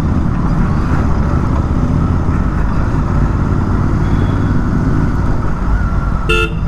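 Motorcycle on the move: a steady rumble of engine and wind noise on the rider's microphone, with one short horn beep near the end.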